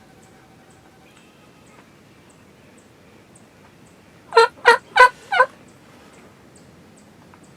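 Wild turkey gobbling once: a loud, fast rattle of four notes lasting about a second, about four seconds in.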